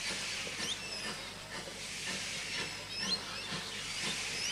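Heritage train carriages rolling slowly past with a steady hiss, and short high bird chirps sounding every second or so over it.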